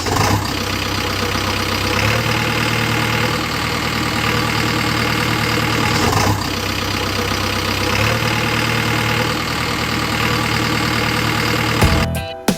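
Heavy diesel engine running steadily, with a brief louder surge about six seconds in. Music starts just before the end.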